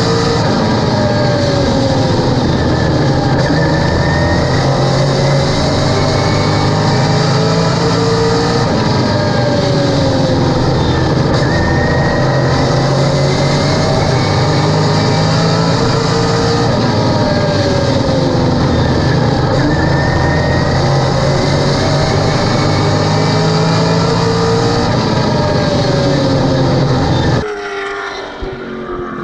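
Late model race car's V8 engine running hard on track, heard onboard, its pitch falling and climbing again in a repeating cycle about every eight seconds as it lifts for the turns and accelerates down the straights. Near the end the sound drops off abruptly to a quieter level.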